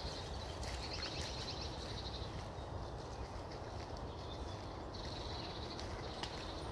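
A bird trilling high in two spells, about a second in and again about five seconds in, over a steady low rumble.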